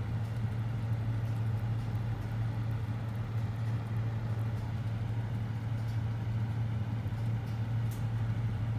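A steady low mechanical hum with no change in pitch or level, and a faint click near the end.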